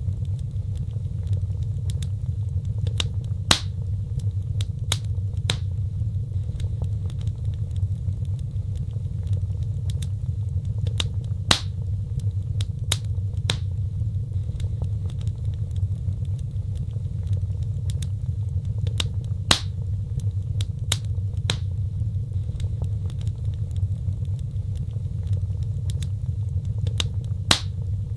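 Fireplace fire burning: a steady low rumble of flames with sharp crackles and pops at irregular intervals, a few of them louder than the rest.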